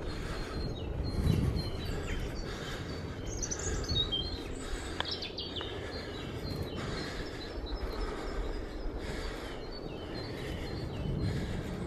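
Small birds chirping, with a few quick calls clearest about three to five seconds in, over a steady low rumble of wind on the microphone.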